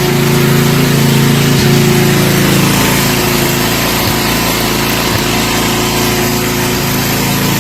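Snapper riding mower's small engine running steadily.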